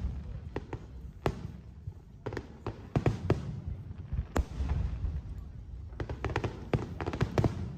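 Fireworks exploding in a dense run of sharp bangs and crackles over a continuous low rumble of booms.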